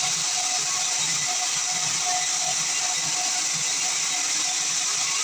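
Sawmill machinery running with a steady high hiss and a faint low pulse about twice a second.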